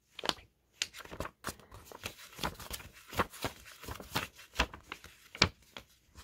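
A paperback book page being flipped rapidly back and forth, a quick series of sharp paper flaps and rustles, about two or three a second.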